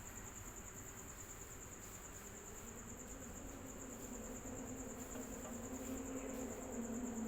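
Electric fan running: a steady whir with a thin high whine. A low droning hum comes in about a third of the way through and slowly grows louder.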